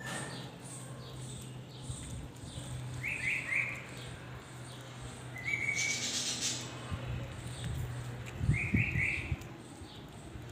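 Birds chirping: two quick runs of three short high chirps, one a few seconds in and one near the end, with a single short note between them. A steady low hum runs underneath, and there is a brief rushing burst about six seconds in.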